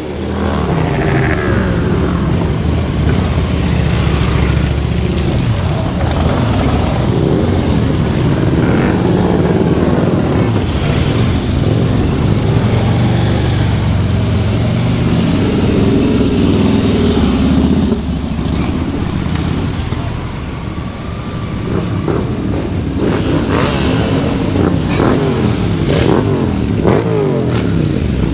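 A stream of motorcycles riding past, their engines revving and each one's pitch sliding as it goes by.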